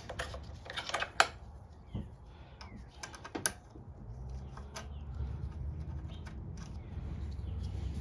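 Light metal clicks and taps of hand tools, sockets and small engine parts being handled during carburettor work, scattered and irregular, over a low steady hum.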